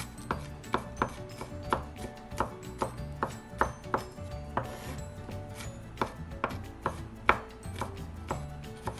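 Knife chopping on a cutting board in uneven strokes, about two a second, with a short pause about halfway.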